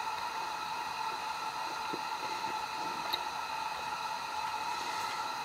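Soft chewing of a bite of steak, with a few faint wet ticks, under a steady hiss carrying some thin high tones.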